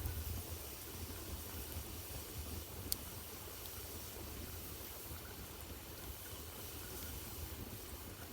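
Wood fire burning in a fireplace: a steady low rumble of flame with a faint hiss, and a single sharp crackle about three seconds in.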